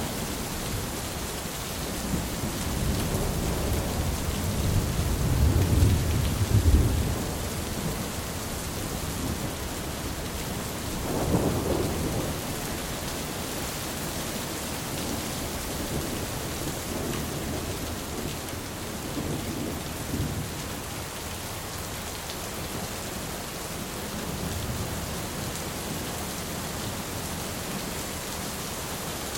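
Steady heavy rain with rolling thunder: a long low rumble builds over the first several seconds, a shorter one comes about eleven seconds in, and fainter rumbles follow later.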